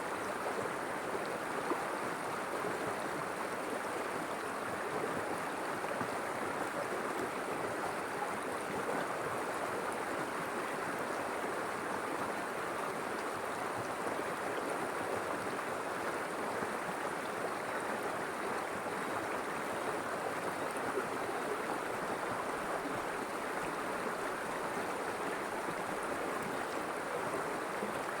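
River water flowing steadily: an even rushing babble with no breaks.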